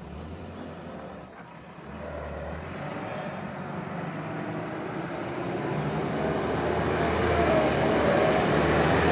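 Tata dump truck's diesel engine running, getting steadily louder.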